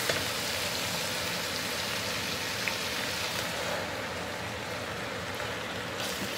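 Onion and spinach sizzling steadily in hot olive oil in a steel pot while the leaves wilt down, the hiss easing a little for a couple of seconds past the middle. Two light knocks of the wooden stirring spoon.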